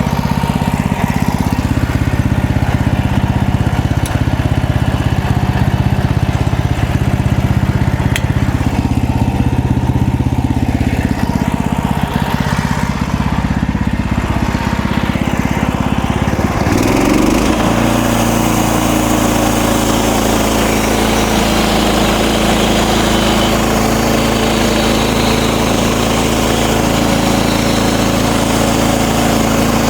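MechMaxx portable band sawmill's small engine running steadily while sawing cedar. About halfway through, its sound shifts suddenly to a higher steady note with more hiss over it.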